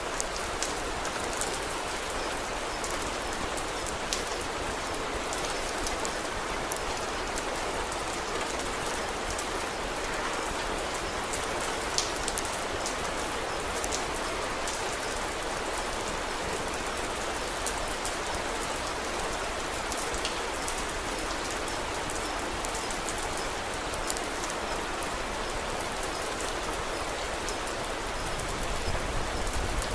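Steady rain falling, with scattered sharp crackles from a wood fire.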